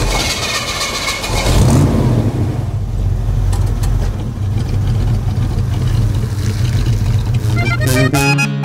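Car engine running with a low steady hum, revving up briefly about a second and a half in. Accordion music comes in near the end.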